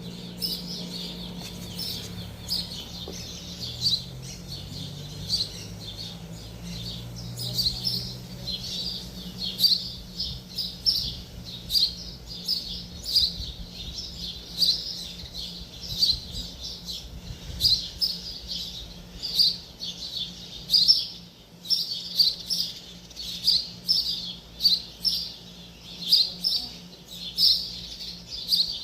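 A small bird chirping over and over, short high chirps at roughly one to two a second, with a steady low hum underneath.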